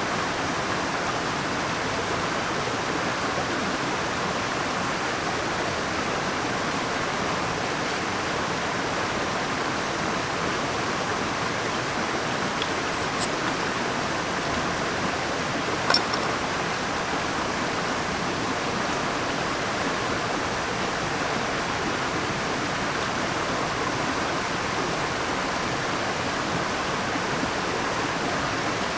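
Mountain stream rushing steadily, with two brief clicks about halfway through.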